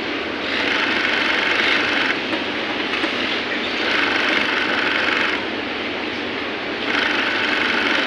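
Sewing machine stitching in three runs of about a second and a half each, with a steady whir between them.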